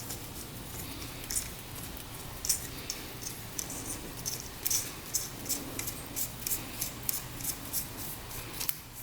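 Sharp, irregular light metallic clicks and small scrapes from hand work on the engine's top end. The clicks come more often in the second half, about two a second.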